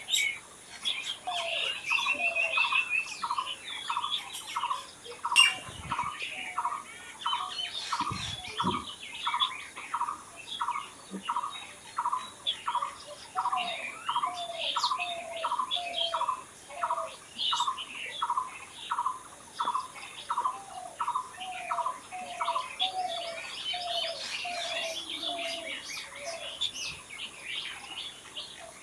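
Several wild birds singing together. One bird repeats a short low note about one and a half times a second through most of the stretch, while others add scattered higher chirps and trills over it.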